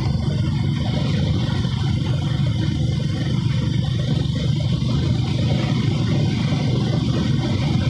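Motorcycle engine running steadily under way, with wind and road noise over it.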